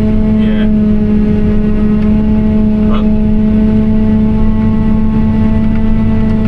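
Tractor engine running steadily under way, a constant loud drone heard from inside the cab.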